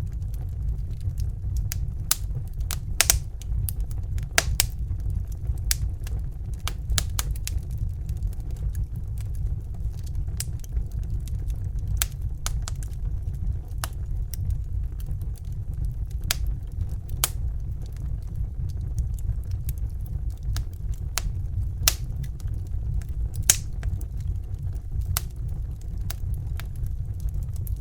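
Crackling fire: irregular sharp pops and snaps, several a second at times, over a steady low rumble.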